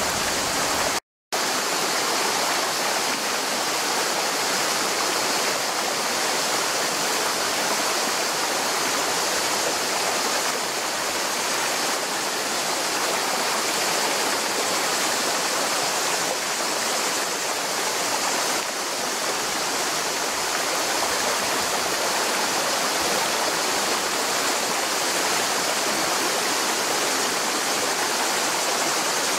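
Mountain stream flowing, a steady rush of water that cuts out completely for a moment about a second in.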